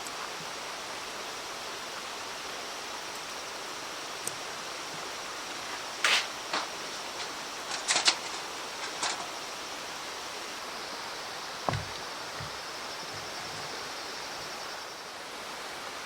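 Steady rushing of a mountain stream. A few sharp clicks come in the middle, and there is a single dull knock a little later.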